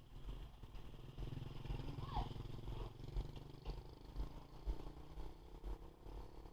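Motor of a 1/10-scale brushless RC truck running with a steady hum that stops shortly before the end, with wind thumping on the microphone.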